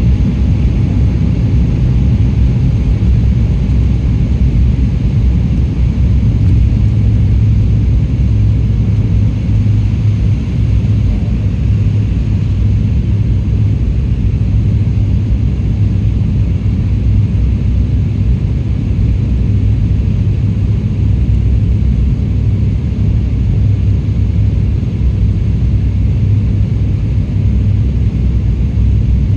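Jet airliner cabin noise in flight: a steady low rumble of engines and airflow with no change in level.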